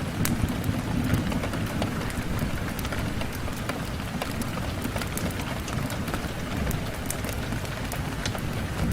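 Steady rain on a window, with a deep even rumble beneath and many small sharp ticks of drops scattered through it.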